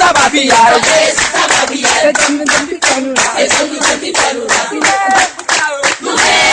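A group of people singing together while clapping their hands in a steady rhythm, about four claps a second.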